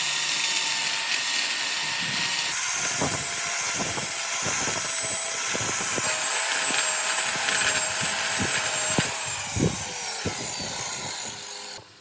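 A power tool running steadily while working wood, with a high whine and scattered knocks. It stops abruptly near the end.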